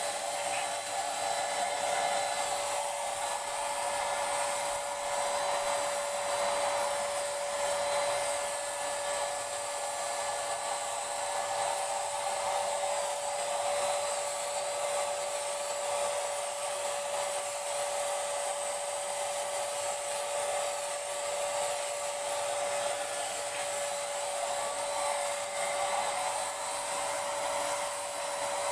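Paint Zoom handheld electric paint sprayer running steadily, a motor whine holding one pitch over a hiss of air and spray.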